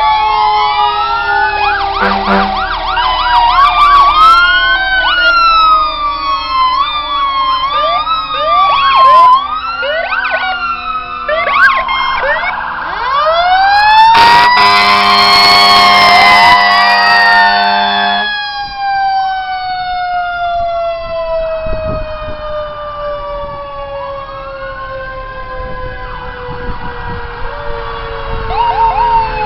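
Several fire truck sirens sounding at once: overlapping rising-and-falling wails and faster repeated yelps. A long horn blast sounds about halfway through, and later one siren slowly winds down in pitch.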